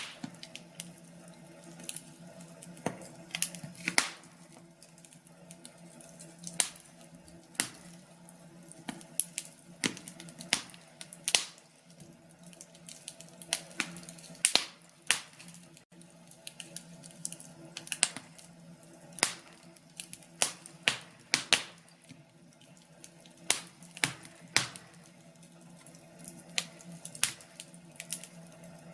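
Wood fire crackling in a fireplace: irregular sharp pops and snaps, sometimes several a second, over a faint steady low hum.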